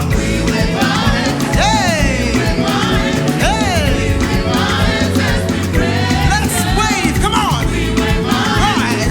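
Live gospel praise and worship music: a full band with a strong bass, with singing voices gliding over it.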